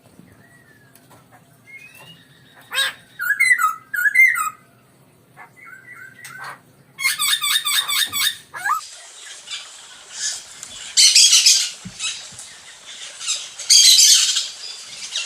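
Poksay hongkong, a laughingthrush, calling: scattered whistled notes, then a fast run of repeated notes, giving way in the second half to loud, harsh chattering bursts. It is a mating call, played to bring other poksays into breeding condition.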